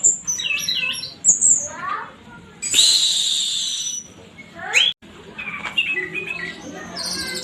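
Orange-headed thrush singing a rapid, varied song in the 'teler' style. High whistles and chirps mix with quick rising sweeps and a harsh rasping note about three seconds in.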